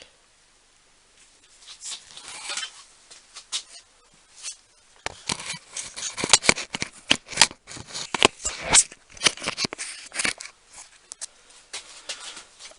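Small tool accessories and their plastic cases being handled: a string of clicks and rattles, sparse at first and busiest in the middle.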